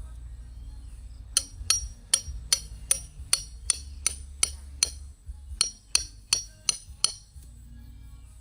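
A hammer striking a metal tent peg in a steady series of about sixteen blows, roughly three a second, each with a short bright metallic ring. There is a brief pause about two-thirds of the way through.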